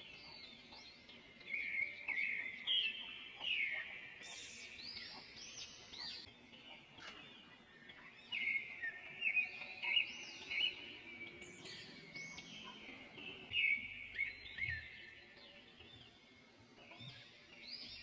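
Several birds chirping and singing over one another: quick rising-and-falling chirps and trills that come in busy spells a few seconds apart, over a faint steady background hiss.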